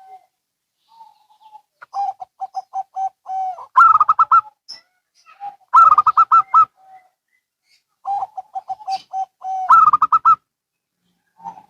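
Zebra doves (perkutut) singing: about three song phrases, each a quick run of short cooing notes that ends in a louder, higher burst of notes.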